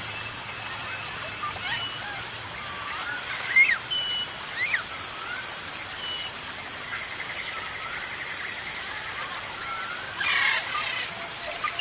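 Birds chirping and whistling in short sliding notes over a steady hiss, with an even high ticking about twice a second. A harsh burst of calls comes about ten seconds in.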